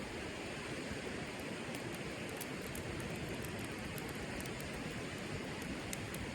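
Wood campfire burning: a steady hiss with scattered small crackles and pops.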